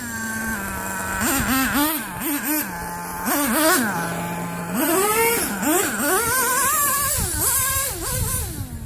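Dynamite Mach 19 two-stroke nitro engine in a Traxxas T-Maxx RC truck idling, then revved up and down in a string of short blips and a longer rev about five seconds in. The truck is running in first gear only, its transmission not shifting into second.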